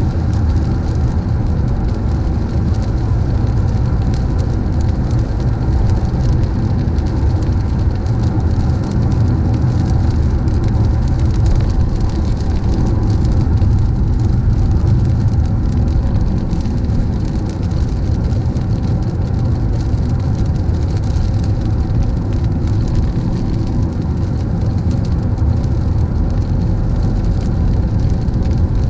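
Car driving on a wet road: a steady low rumble of road noise with an even hiss of tyres on wet pavement.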